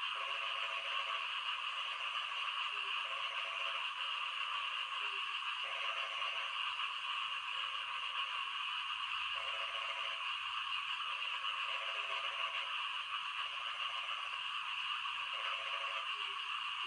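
Frogs croaking in rain: short, rasping calls repeated about every one and a half seconds over a steady hiss of rain.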